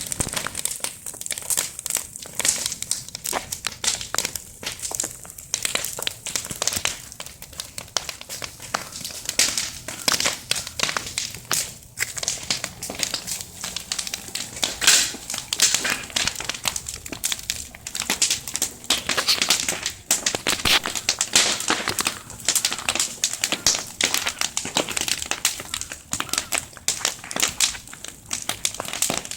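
Large bonfire burning fiercely, crackling and popping in a dense, irregular stream of sharp snaps over a steady hiss.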